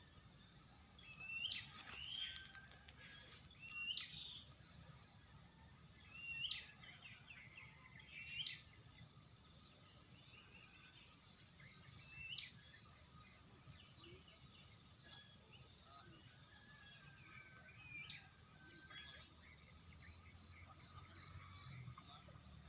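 Wild birds calling in short, sharp whistled notes every second or two, over rows of quick insect chirps. A few clicks come about two seconds in.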